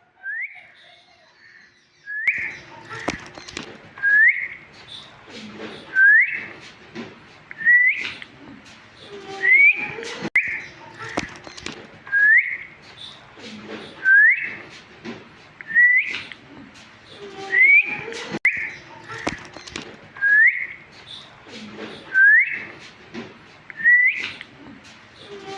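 Parrot giving a short rising whistle, repeated over and over about once every two seconds.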